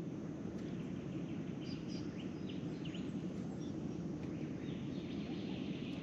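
Birds chirping in a few short calls over a steady low background noise.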